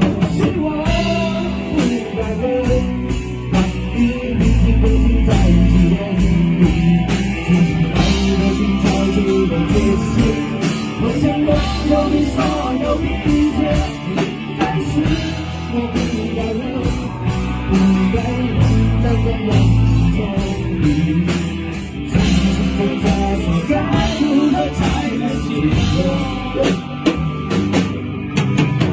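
Rock band playing: drum kit keeping a steady beat under two guitars and bass guitar.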